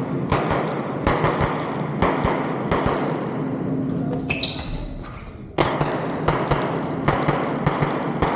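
A string of pistol shots, about one a second, with a pause of a couple of seconds partway through.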